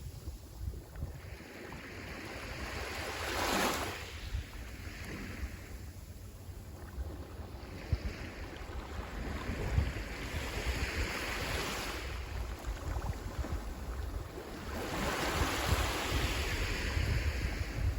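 Sea waves breaking and washing up the shore, swelling and fading three times. Wind rumbles on the microphone underneath.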